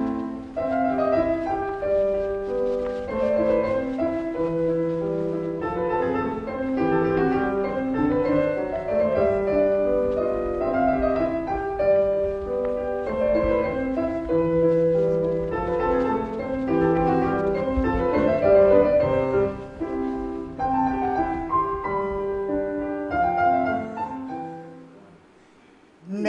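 Solo piano playing a gentle melody with a bass line, note by note, fading out near the end.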